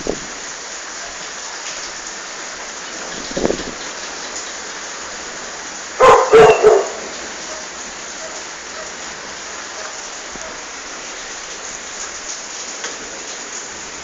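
Steady rain falling during a thunderstorm, with a dog barking a few times in quick succession about six seconds in and once briefly about three and a half seconds in.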